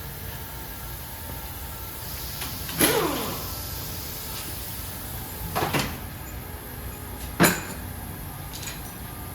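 A few sharp metal clanks from tools and engine parts being handled and set down, about three, six and seven and a half seconds in. The first rings briefly and falls in pitch.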